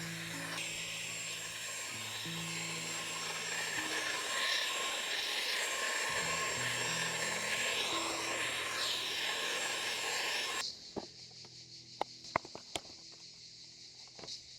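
Electric air pump whirring steadily under background music, then cutting off suddenly about three quarters of the way through; a few light clicks and steps follow.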